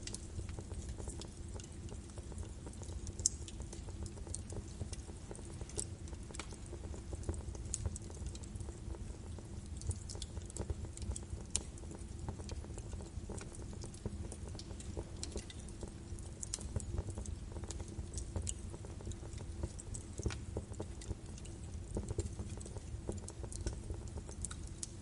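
Birch wood fire burning in a fireplace: a steady low rumble of flames with frequent sharp, irregular crackles and pops.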